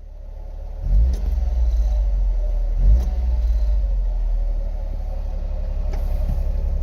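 Honda Beat's 656 cc three-cylinder engine running, blipped twice with brief revs about a second and three seconds in, then settling to a steady idle.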